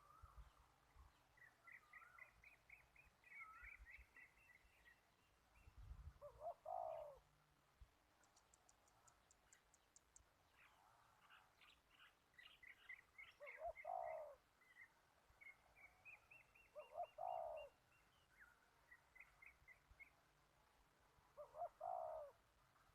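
Faint dove cooing: four separate cooing phrases that fall in pitch, each about a second long. Between them, small birds chirp in quick, rapid series.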